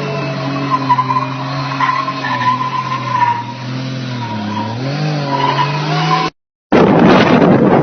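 Motorcycle engine running at a steady speed, its pitch dipping and then climbing again about four and a half seconds in. Just after six seconds it cuts off abruptly, and loud wind buffets the microphone.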